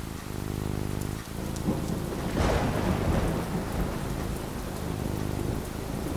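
Steady rain falling, with a thunderclap about two and a half seconds in that rumbles and dies away over a couple of seconds.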